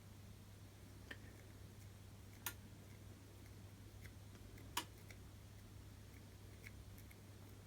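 Near silence: a steady low hum under a few faint, sharp little clicks, the clearest about two and a half and about five seconds in.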